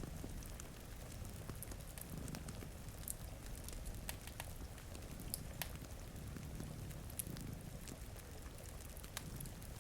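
Layered ambience of steady rain and a crackling wood fire, with scattered sharp pops and ticks, over a low continuous purring rumble from cats.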